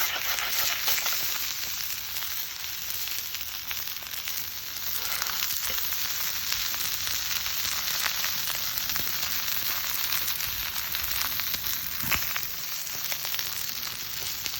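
Chicken frying in an iron Turk frying pan, a steady sizzle full of fine crackles and spits.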